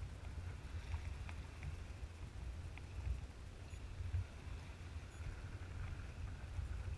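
Water dripping and splashing lightly from a kayak paddle, a few small ticks, under a steady low rumble of wind on the microphone.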